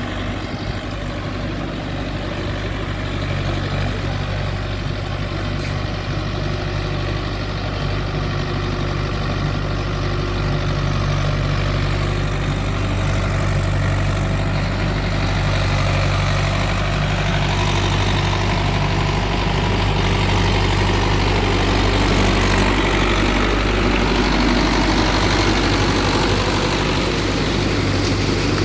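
Mahindra tractor's diesel engine running steadily, gradually getting louder.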